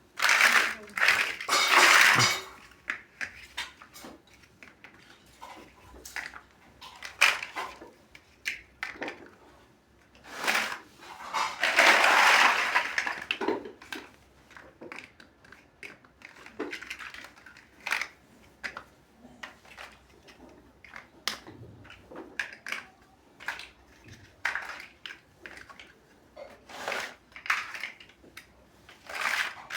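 Plastic building bricks clicking and clattering as they are handled and pressed together, with scattered sharp clicks throughout and two longer stretches of rattling loose pieces, one near the start and one about halfway through.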